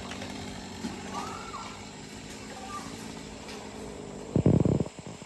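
An engine running steadily at idle, with a short loud burst of low rumbling about four and a half seconds in.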